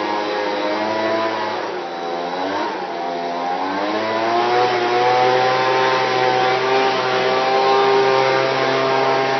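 Horse blow dryer running. Its motor whine dips in pitch twice during the first few seconds, then climbs and holds steady at a higher, louder pitch.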